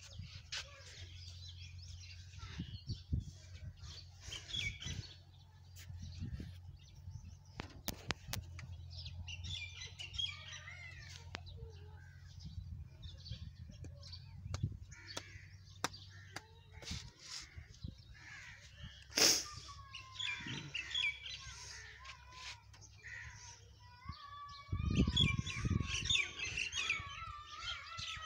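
Small birds chirping and calling on and off, over a faint steady low hum. A single sharp click comes about two-thirds of the way through, and a few low thumps follow near the end.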